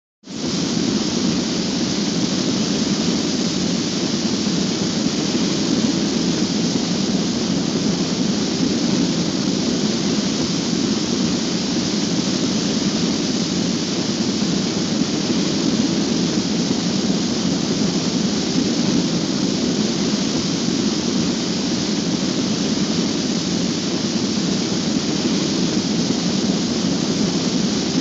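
A steady, even rushing noise that starts abruptly and holds without change, with a deep rumble underneath and a bright hiss on top.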